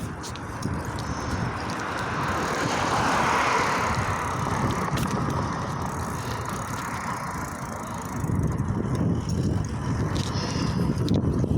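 Wind buffeting the microphone and road noise while riding a bicycle along a road, with a passing vehicle's tyre hiss swelling to a peak about three seconds in and fading out a few seconds later.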